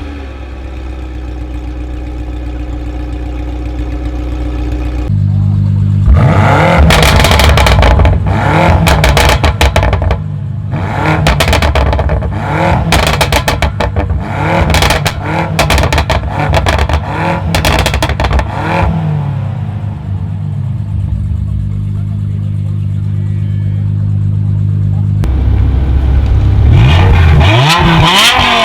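Tuned car engine idling, then about a dozen seconds of quick throttle blips with many sharp exhaust pops and cracks. It settles back to a steady run and revs up again near the end.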